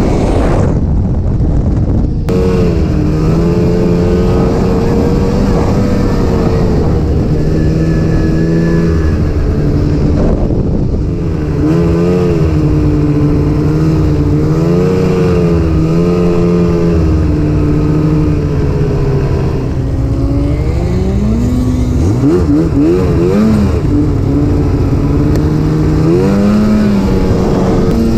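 Snowmobile engine running on the trail, its pitch rising and falling with the throttle, with a few quick revs up and down about three-quarters of the way in.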